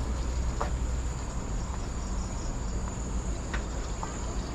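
Insects in tropical forest keeping up a steady, high-pitched drone, with a low rumble underneath and a few faint short chirps.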